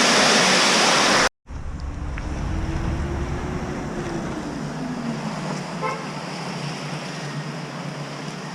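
A loud steady rushing noise that cuts off abruptly about a second and a half in, then a low engine rumble with a tone that rises slowly and falls again.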